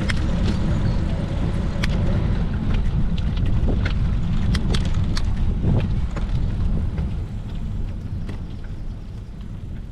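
Wind buffeting the microphone of a moving bicycle ride, a heavy low rumble with scattered sharp clicks and rattles; it eases off from about seven seconds in.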